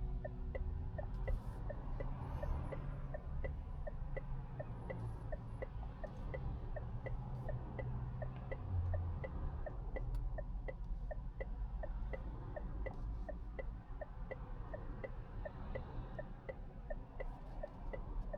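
Turn-signal indicator ticking steadily in the cabin of the electric Mazda 6e, roughly three ticks a second, over a low steady rumble of road and tyre noise.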